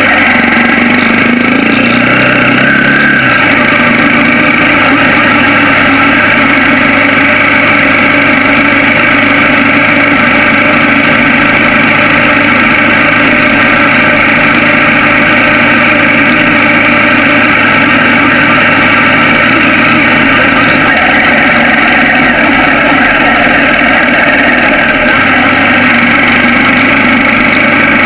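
Bajaj Pulsar 200NS motorcycle's single-cylinder engine running steadily while riding at low speed, with a brief change in engine note about three seconds in, over constant wind and road noise on the microphone.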